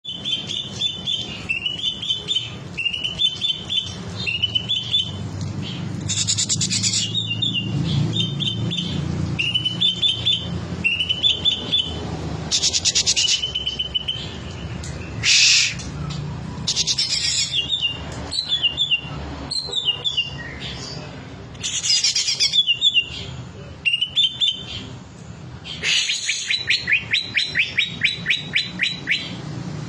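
Cucak ijo (green leafbird) singing a long, varied song of short repeated chirping phrases, broken by brighter loud bursts and, near the end, a fast run of rapid repeated notes. It is running through its repertoire of learned song material.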